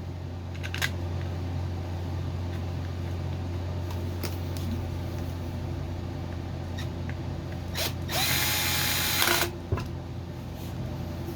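Electric screwdriver running for about a second and a half near the end, its motor pitch rising as it spins up, driving a Phillips screw that holds a cover on a Mantis tiller engine. A few light clicks of parts being handled come before it, over a steady low hum.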